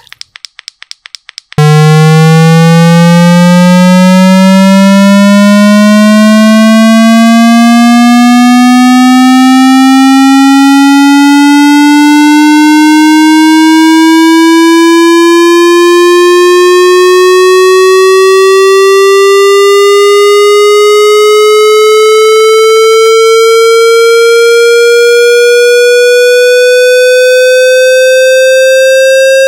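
Speaker-cleaning tone: about a second and a half of rapid clicks, then one very loud buzzy electronic tone that rises slowly and steadily from a low hum to a higher pitch, pulsing about once a second. It is played to shake water and dust out of a phone speaker.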